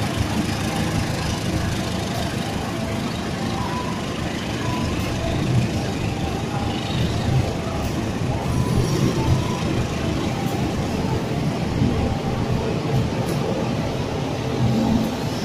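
Passenger train coaches rolling slowly past a station platform: a steady rumble of wheels on the rails.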